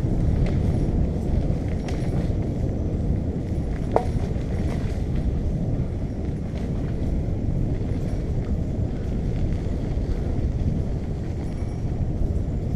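Ride noise from a moving bicycle: a steady low rumble of wind on the microphone and tyres on the path, with small rattles and one sharp click about four seconds in.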